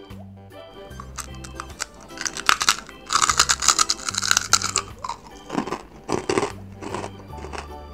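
Fried pork rinds (chicharrón) being bitten and chewed, with loud, crisp crunches that are thickest in the middle, followed by a few single crunches. Background music with a steady bass line plays underneath.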